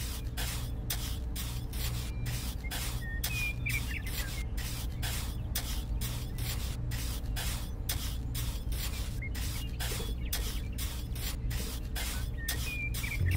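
Small hand trowel scraping and smoothing wet cement in quick, even strokes, about three a second, over a steady low hum.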